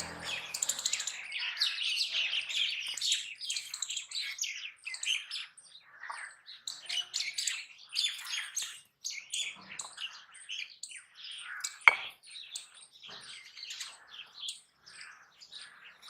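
Small birds chirping busily, many short high chirps that thin out after the first few seconds, with one sharp click about twelve seconds in.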